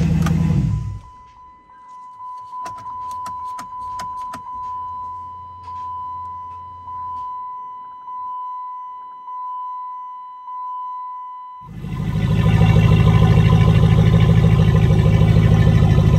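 The Dodge Charger's 5.7 HEMI V8 runs for about a second and then stops. A steady electronic chime from the car follows, pulsing about once a second, with a run of clicks early on. About twelve seconds in, the V8 is heard idling loudly and steadily at the exhaust.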